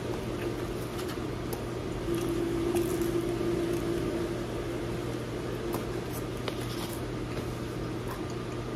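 Steady hum of a small machine or appliance, with scattered faint clicks and taps.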